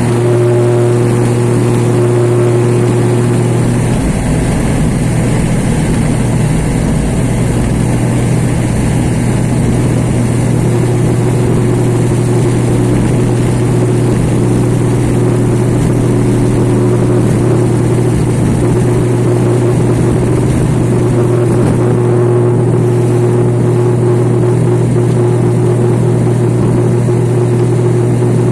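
Aircraft engines running at high power for takeoff: a loud, steady drone with a deep hum and a higher tone. About four seconds in, a low rumble joins and runs on under it.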